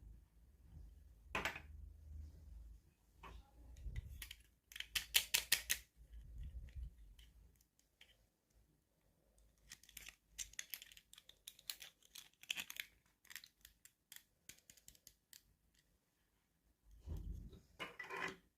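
Hands opening and handling toy packaging: irregular clicks and crinkles of plastic and cardboard, with a quick run of clicks about five seconds in.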